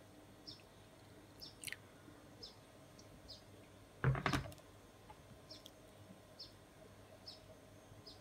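A bird chirping repeatedly in the background, short high falling chirps about once a second. About four seconds in comes one brief clatter of kitchenware being handled.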